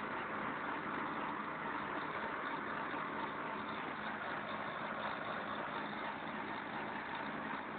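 Tractor engine running steadily, with an even, unchanging sound.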